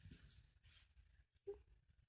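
Near silence: faint rustling and scratching of fur and fabric as a dog rubs against a plush toy pig, with one brief low squeak about one and a half seconds in.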